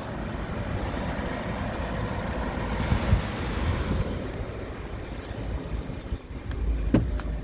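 A 2008 Audi S6's V10 engine running at idle: a steady low rumble.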